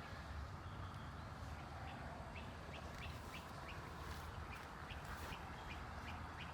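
Faint bird calling: short high chirps repeated about two to three times a second, starting about two seconds in, over a low steady rumble.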